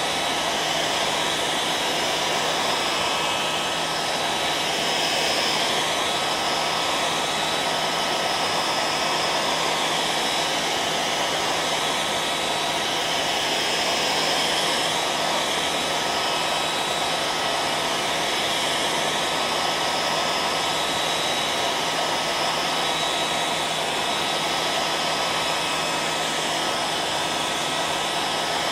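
Hair dryer running steadily: a continuous rush of blown air with a steady hum and a faint steady whine, unchanging throughout.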